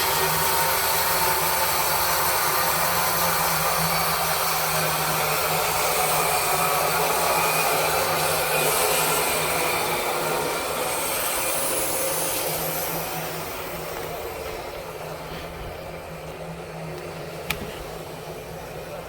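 Tru Cut sawmill's engine running steadily, its blade cutting through a maple log. The cutting noise eases off about two-thirds of the way through, leaving the engine hum, and a single sharp click comes near the end.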